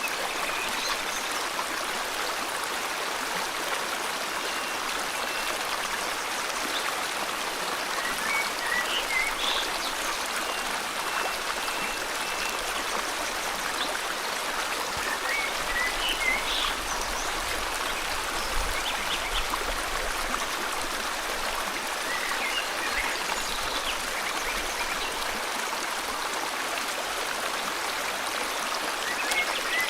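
River water flowing steadily, with short bird chirps scattered over it every few seconds.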